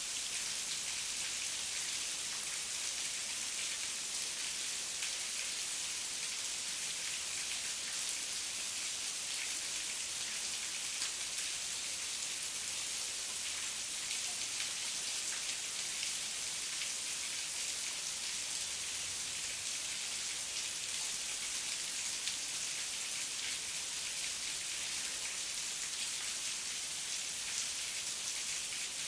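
Heavy rain falling steadily, a dense hiss of many fine drop patters without thunder.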